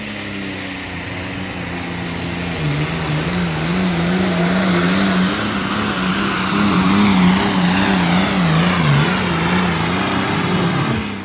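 Pulling tractor's diesel engine at full throttle during a pull down the track. Its note wavers rhythmically up and down about twice a second as the tractor loads against the sled. Near the end the engine backs off sharply as the run finishes.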